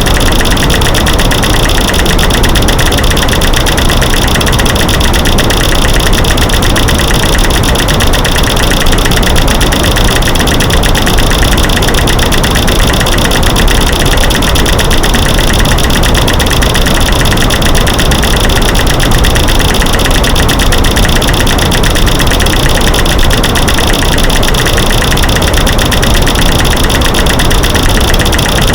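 Dense, rapid clicking and clacking built from layered recordings of light switches being clicked, sticks snapping and rocks knocking together, over a loud white-noise hiss. It runs on evenly without pauses.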